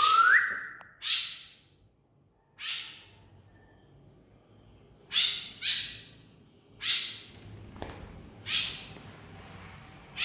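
White-breasted woodswallow (kekep babi) giving short, harsh calls, about seven spaced irregularly a second or so apart.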